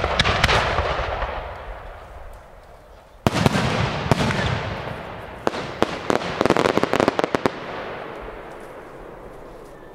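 Professional display firework shells bursting overhead. The first sharp bang comes right at the start and a second about three seconds in, each with a long echoing tail. A cluster of sharp cracks follows around six to seven seconds in, the inner shells of shell-in-shell shells breaking, and then it all fades away slowly.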